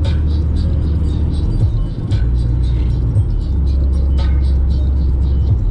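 Music with a heavy bass line playing on the radio inside the cabin of a Peugeot Expert 1.6 turbo diesel van. It plays over a steady drone of engine and road noise while driving.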